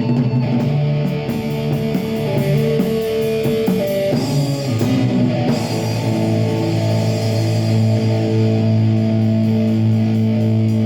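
Live rock band playing: electric guitar with drums. About halfway through, a long held low chord starts and rings on.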